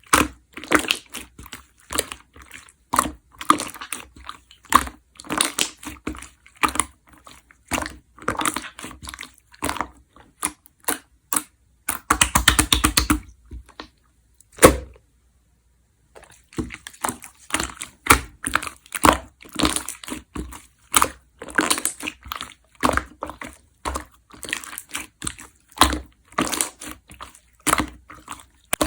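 Red, chewy slime being squished and pressed by hand, giving irregular wet clicks and pops. About twelve seconds in there is a quick run of rapid pops, then a single sharp pop and a short silent gap before the squishing resumes.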